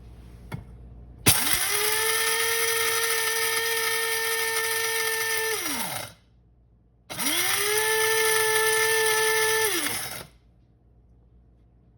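Small electric coffee grinder grinding whole coffee beans in two runs, about four and three seconds long with a short pause between: each time the motor spins up quickly to a steady whine and winds down when released.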